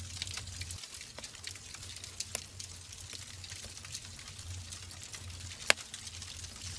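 Wood fire burning in a fireplace: a steady hiss with frequent small crackles, and one loud sharp pop from the burning logs near the end.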